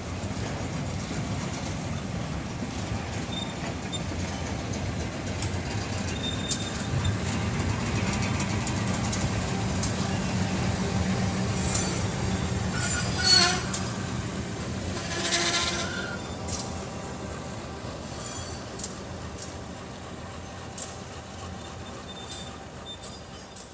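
Passenger train rolling on the rails with a steady rumble and scattered clicks from the wheels, and two brief squeals about 13 and 15 seconds in. The rumble fades toward the end as the train slows on arrival at a station.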